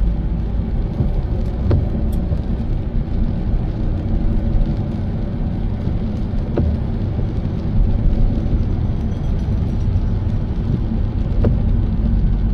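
Car road noise while driving: a steady low rumble of engine and tyres, with three faint clicks about five seconds apart.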